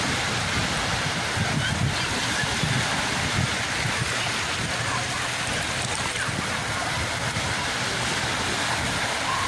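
Sea waves washing on the shore, a steady rush of surf.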